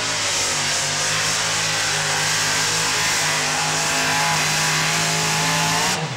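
Modified pulling tractor's multi-engine power plant running flat out under load in a steady, loud drone. Near the end the pitch sags and the engines cut off abruptly as the pull ends.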